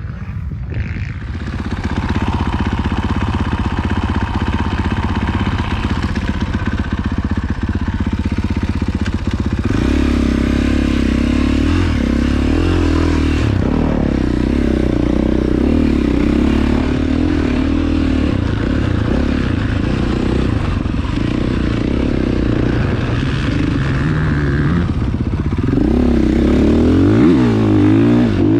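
Motocross dirt bike engine running and revving, its pitch rising and falling as the throttle changes, most noticeably near the end.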